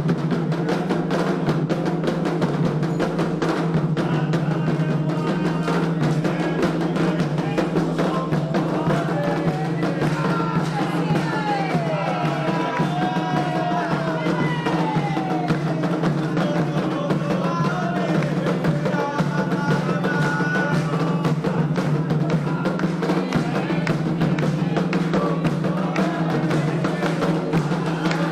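Candomblé ritual music: hand drums beating a steady, dense rhythm, with voices singing over them.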